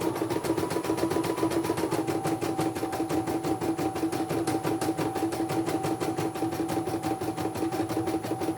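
Computerised embroidery machine stitching, its needle bar hammering in a fast even rhythm over a steady motor hum. The machine's tone drops a little in pitch about two seconds in as it slows.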